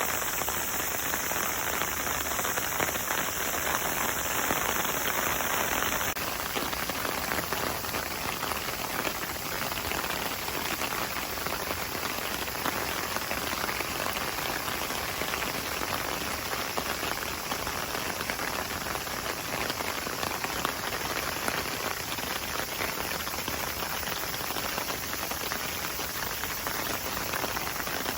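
Steady hiss of falling or running water with no single event standing out; its tone shifts slightly about six seconds in.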